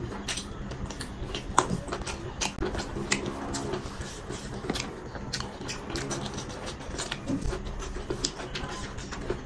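Close-up eating sounds of chicken biryani eaten by hand: wet chewing and lip-smacking, with many small sharp clicks throughout.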